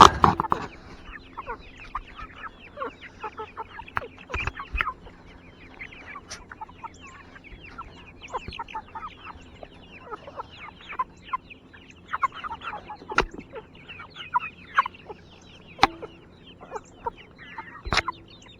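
Chickens clucking continually as they feed, in many short calls, with a few sharp knocks here and there.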